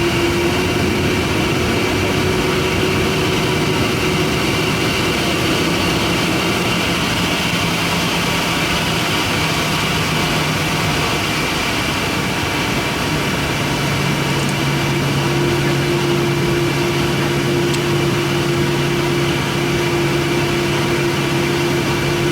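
Airliner cabin noise while holding short of the runway: a steady hum of the engines running at idle over the hiss of the cabin ventilation. The engine tones shift slightly about halfway through.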